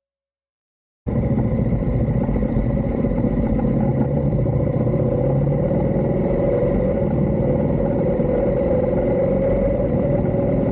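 Motorcycle running steadily while being ridden, cutting in abruptly after about a second of silence.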